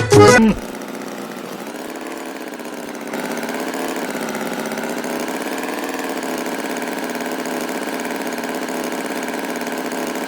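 A motor engine idling with a steady hum that steps up slightly in level about three seconds in. Music cuts off about half a second in.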